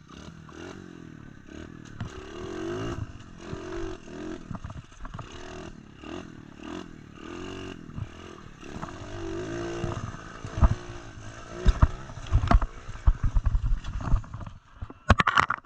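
SSR 125 pit bike's single-cylinder four-stroke engine revving up and down. From about ten seconds in comes a run of sharp knocks, scrapes and clatter as the bike crashes.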